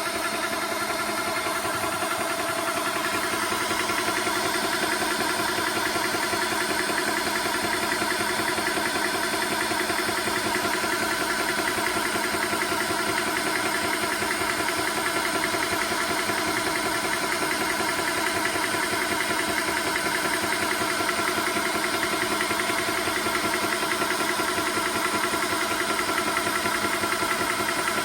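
TOAUTO A1X portable high-pressure PCP air compressor running steadily while filling an air rifle, an even mechanical drone with a fast piston pulse.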